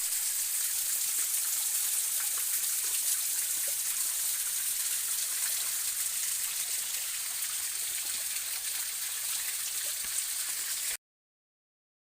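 Steady hiss of flowing stream water that cuts off abruptly about eleven seconds in.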